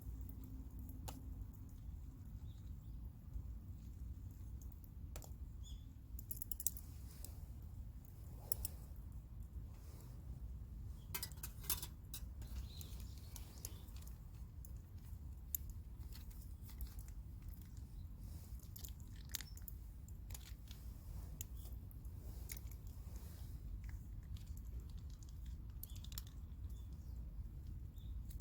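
Campfire crackling: scattered sharp pops and snaps at irregular intervals over a steady low rumble.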